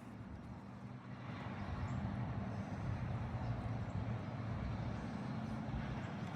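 A motor engine running steadily at low pitch, growing louder about a second in and holding.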